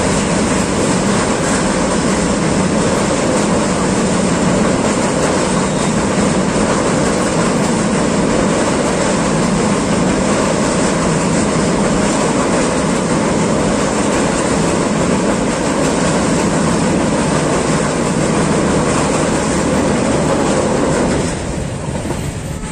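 Passenger train coaches rolling across a steel truss railway bridge: a steady, loud noise of wheels on rails and bridge steel. It drops away sharply about a second before the end, as the last coach clears the bridge.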